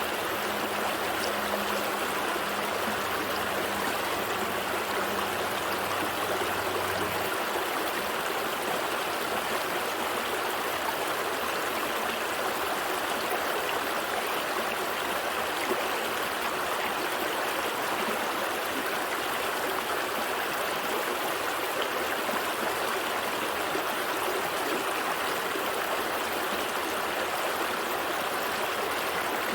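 Gentle stream flowing steadily, a dense even rush of water with trickling. A faint low hum underneath stops about seven seconds in.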